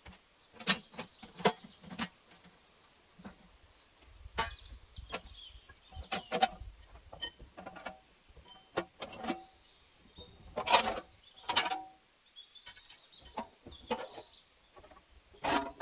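A series of irregular knocks and clatters, a dozen or more at uneven spacing and some in quick clusters, from hand work with wood or stone. Faint bird chirps sound behind them.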